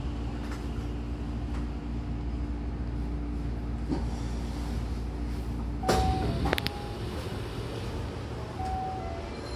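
Hankyu commuter train rolling slowly to a stop at a platform, a low steady rumble with a faint hum that ends about six seconds in. It is followed by a sudden burst of air and a couple of clunks as the car's sliding doors open.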